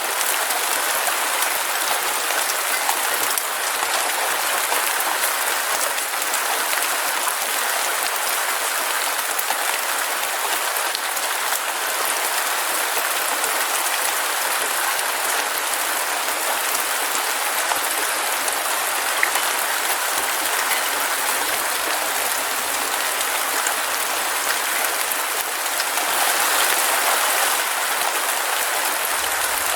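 Heavy rain falling steadily: a dense hiss of countless drops with fine patter, briefly a little stronger near the end.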